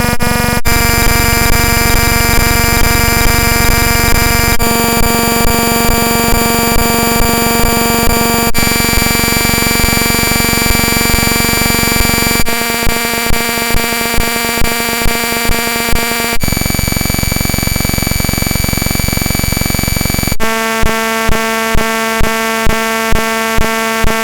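Loud, harsh cacophony of layered synthesized electronic tones, many pitches sounding at once, switching abruptly to a new block of tones about every four seconds, with a regular beat about twice a second in the later sections.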